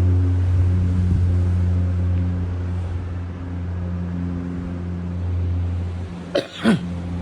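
An engine running with a steady low hum. Near the end come two short sharp knocks in quick succession.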